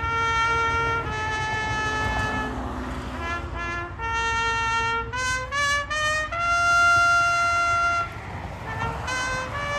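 Solo trumpet playing a slow melody one note at a time, with a quick run of short notes and a long held note about six seconds in.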